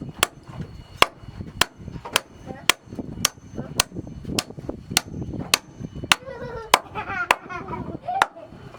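Hammer driving nails into wooden floor planks: sharp, ringing strikes at a steady pace of about two a second. A short voice rises over the strikes about six seconds in.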